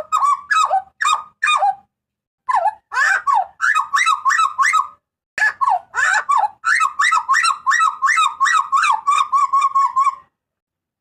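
Hooded butcherbird (jagal papua) calling: rapid runs of loud, short, harsh notes, several a second, broken by two brief pauses about two and five seconds in.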